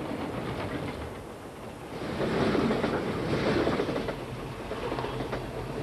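Freight train rushing along the rails at speed, a dense rumble and clatter of wheels on track that swells louder about two seconds in; a runaway going too fast.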